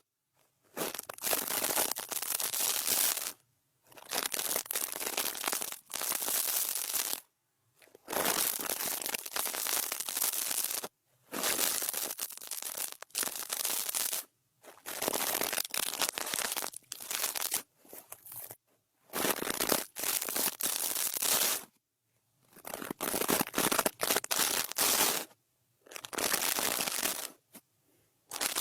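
An ASMR brush swept across the microphone in about ten separate strokes, each a scratchy hiss lasting one to three seconds, with silent gaps between them.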